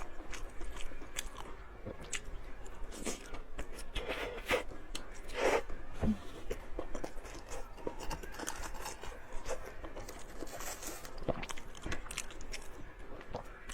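Close-miked eating: a person biting and chewing food, with irregular crunches and wet mouth clicks.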